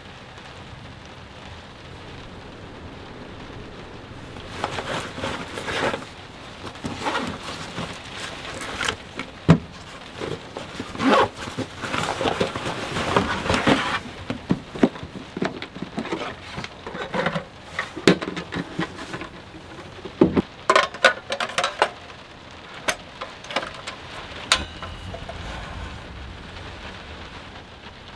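Rain falling on a pickup truck's camper shell, heard from inside as a steady patter. From about five seconds in to about twenty-two seconds in, irregular louder spells of clatter and sharp knocks come and go over it.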